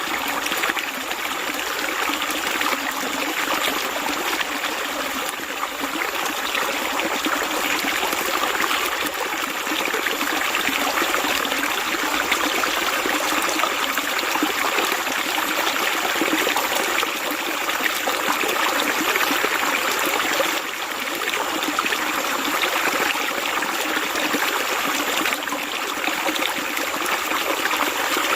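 Flowing water, a stream trickling and babbling steadily, with a busy, splashy texture and no let-up.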